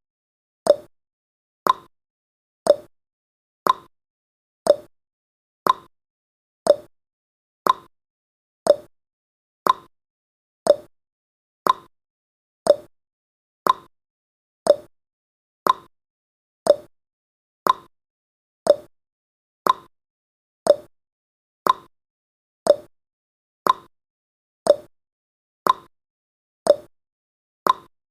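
Timer's clock-tick sound effect: one short, sharp tick every second, evenly spaced.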